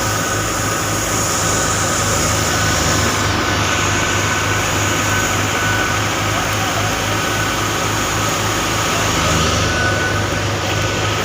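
Harvest machinery engine running steadily, a low engine hum with a steady higher whine above it.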